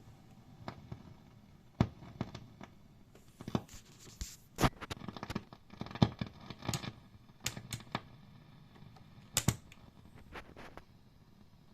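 Hughes & Kettner GrandMeister 40 tube amp on its clean channel, making random pops and crackles through the speaker: irregular sharp pops with scattered crackling between them, a handful much louder than the rest. The noise comes in as the master volume is turned, and swapping the tubes has not cured it.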